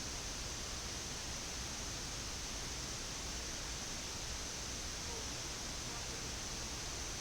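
Steady, even hiss of flight deck background noise, with the airliner parked at the stand and its engines not yet started.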